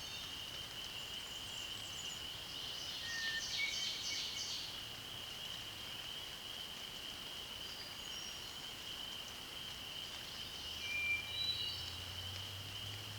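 Hermit thrush singing two song phrases, about three and eleven seconds in. Each phrase opens on a held lower note and breaks into a quick fluty run of higher notes. A steady high-pitched chorus carries on underneath.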